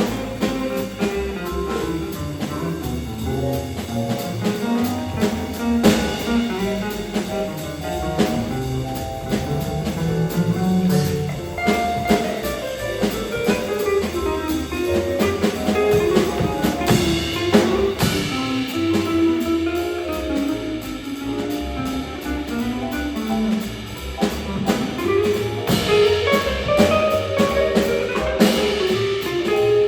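Small high school jazz combo playing live: a melody line over walking bass and drum kit, with regular cymbal and drum hits.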